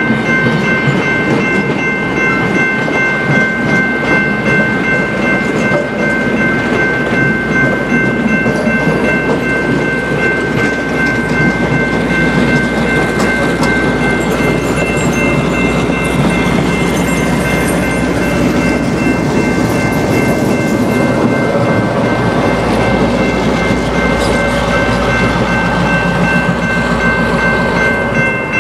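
Railroad passenger coaches rolling through a grade crossing, their wheels clattering steadily over the rails. The crossing's warning bell rings continuously over the rumble. A deeper locomotive rumble builds in the last several seconds.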